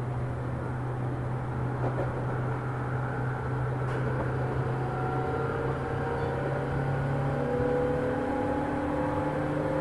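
JR 205 series electric train running, heard from inside the motor car: steady rail and running noise under a low hum. From about three seconds in, the whine of its externally fan-cooled traction motors rises slowly in pitch as the train gathers speed.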